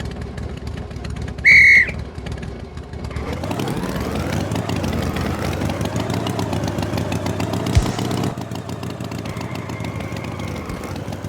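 A short, loud honk-like tone about a second and a half in, then a cartoon tractor engine running, its pitch rising as it revs up and then holding steady.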